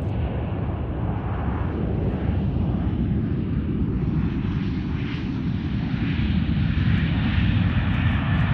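Airplane engine noise, a steady rumble that slowly grows louder.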